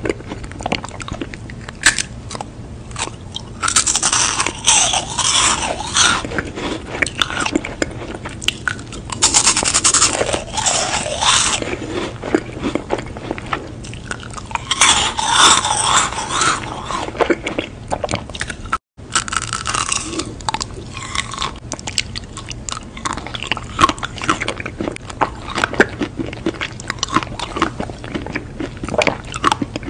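Close-miked crunching and chewing of crisp meringue cookies. Loud spells of crackly crunch come every few seconds, with quieter chewing clicks between them. The sound cuts out completely for a moment about two-thirds of the way through.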